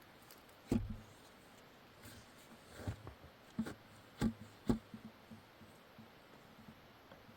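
About five dull knocks or thumps, unevenly spaced, the first about a second in and a cluster near the middle.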